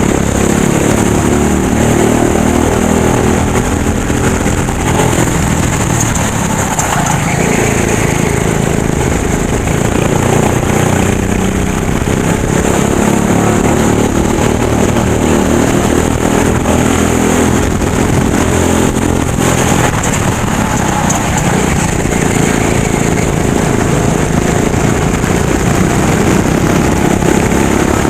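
Racing go-kart engine running hard, its pitch rising and falling repeatedly as the throttle opens and closes, with a steady high hiss above it.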